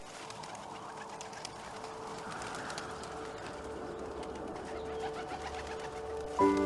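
A bird's low cooing call, held long with brief breaks, over soft woodland background with scattered light ticks. Music comes in near the end.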